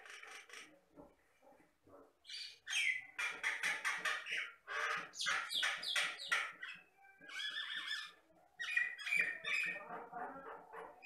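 Jalak batam myna singing loudly: several bursts of fast chirps, whistles and harsh squawky notes, with short pauses between them.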